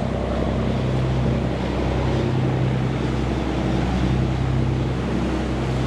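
Motorboat engine running with a steady low drone as the boat passes through the inlet, with wind and water noise over it.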